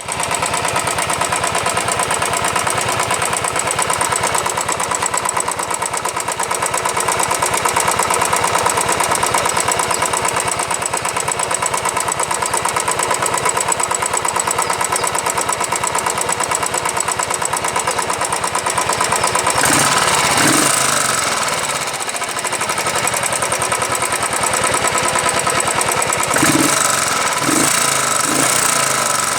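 Royal Enfield Thunderbird BS4 single-cylinder engine running with a fast, steady tappet ticking, the valve-train noise its owner calls a tappet problem common to all BS4 models. The sound shifts briefly about twenty seconds in and again near the end.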